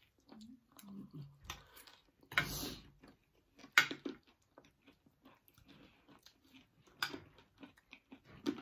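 Quiet close-up chewing of crunchy chatpate (spicy puffed-rice mix) and fried pakoda: scattered soft crunches and mouth clicks, with one short breathy hiss about two and a half seconds in.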